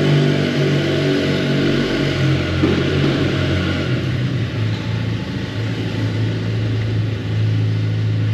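Motorcycle engine running at low speed inside an enclosed underground car park, its note dropping as the bike slows to a stop at the garage door, then running steadily.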